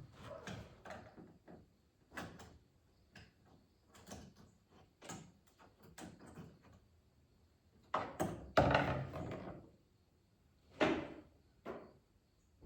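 Irregular clicks, knocks and rustles of small parts being handled while working inside an opened microwave oven, the loudest cluster about eight to nine seconds in.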